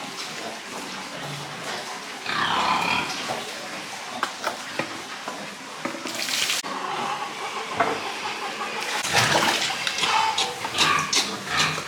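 Pigs calling: one call a couple of seconds in, then a run of calls in the last three seconds. A short hiss comes near the middle.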